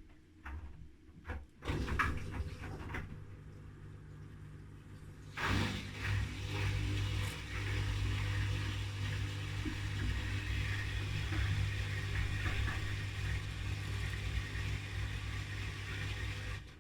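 Haier front-loading washing machine working its water mid-cycle: a few clicks, then a steady electric pump or valve hum starts about two seconds in. About five seconds in, a rushing of water joins the hum. Both run steadily and cut off together just before the end.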